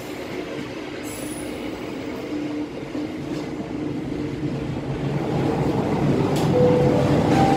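Passenger train running on the rails, heard from the rear carriage: a steady wheel-and-rail rumble with a few faint steady tones, growing louder over the last few seconds.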